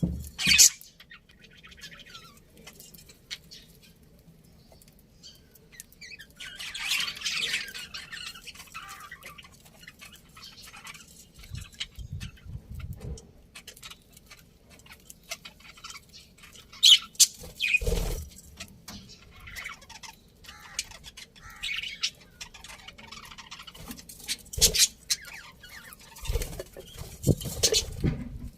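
Budgerigars chirping and squawking in scattered short calls, with a few louder sharp knocks among them.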